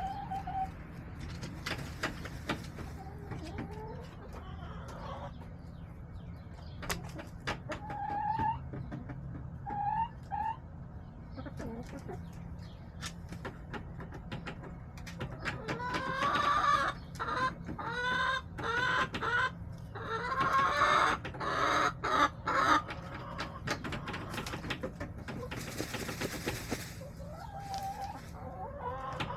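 Backyard hens clucking, with scattered short calls, then a loud run of rising squawks about halfway through that lasts several seconds. A brief rushing noise comes near the end.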